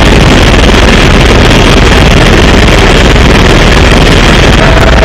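Helicopter engine and rotor noise, loud and steady, with a thin steady whine coming in near the end.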